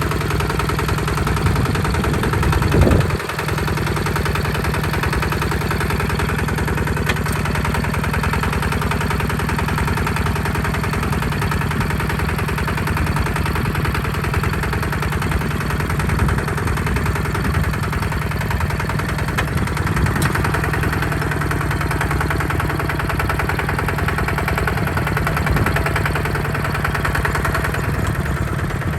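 Diesel engine of a Hinota HG Gold 155 DI tractor running steadily under load while plowing mud. About three seconds in it briefly gets louder, then settles back to an even drone.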